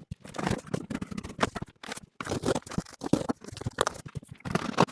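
Cardboard box and packing being handled: irregular scraping, rustling and light knocks as the packaging is pulled and shifted around the machine.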